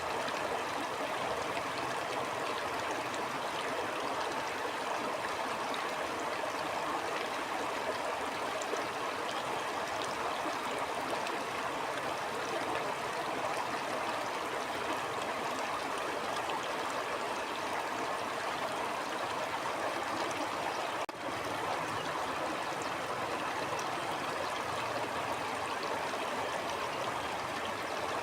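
Flowing stream: a steady, even rush of running water, with one momentary dip in level about three quarters of the way through.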